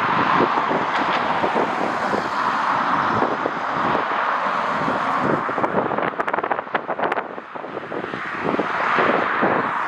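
Strong wind buffeting the microphone over a steady rushing noise, which dips a little in the middle and swells again near the end. A quick run of sharp clicks comes about six to seven seconds in.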